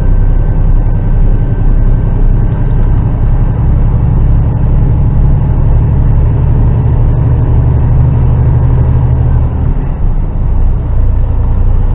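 Heavy goods lorry's diesel engine pulling hard under load up a hill, heard from inside the cab as a steady low drone. It dips briefly near the end.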